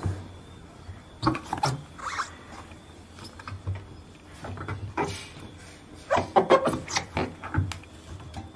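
A towel rubbing and wiping around the rubber door gasket of a front-loading washing machine, in irregular strokes, with a busier run of strokes about six seconds in.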